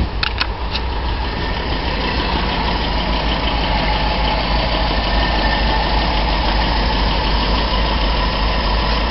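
Old Toyota Corolla's gasoline engine idling steadily just after starting, running on gasoline that sat in its tank for 16 years.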